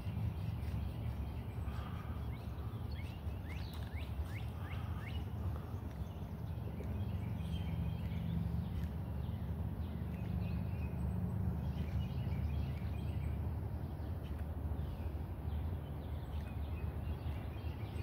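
Outdoor pond-side ambience: a steady low rumble, with a bird chirping in a quick run of short, high calls a few seconds in and fainter calls later.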